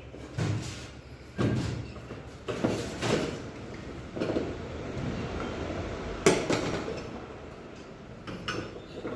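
Irregular knocks and clatters of hard objects being handled, about six in all, with rustling in between; the loudest knock comes a little past the middle.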